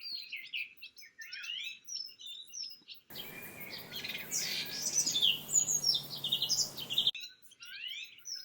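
Songbirds chirping and singing in quick, repeated short calls. From about three to seven seconds in, a louder stretch of calls over a steady hiss starts and stops abruptly.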